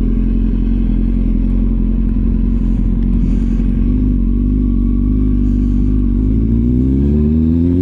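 Motorcycle engine running at steady, fairly low revs, then rising in pitch near the end as it accelerates.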